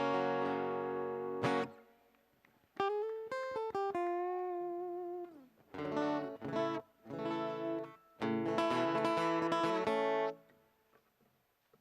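Solo guitar played without singing: a strummed chord rings out, then a few single notes with one bending in pitch, then more strummed chords that stop about ten seconds in.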